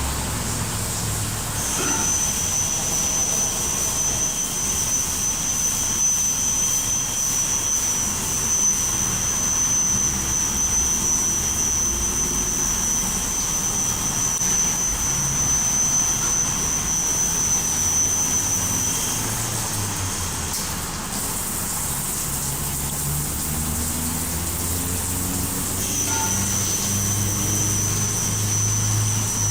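Belanger FreeStyler automatic car wash running: a steady hiss of spraying water and machinery, with a steady high whine that stops about two-thirds of the way through and comes back near the end. A low motor hum rises in pitch over the last few seconds.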